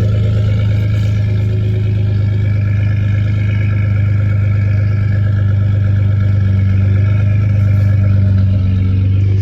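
Twin-turbo 3.5 L EcoBoost V6 of a 2012 Ford F-150 idling steadily after a cold start, heard through an MBRP 3-inch cat-back exhaust with the resonator deleted and catted high-flow downpipes.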